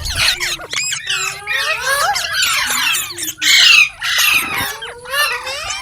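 Indian ringneck parrot chattering and squawking in a rapid run of rising and falling calls, with one loudest squawk about three and a half seconds in.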